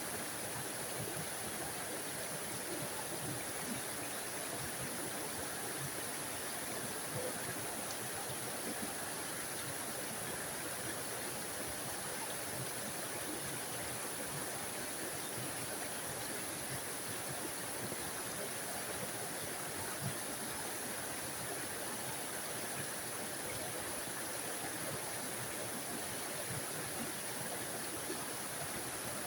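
Small forest waterfall splashing and rushing in a steady stream of water noise, even throughout.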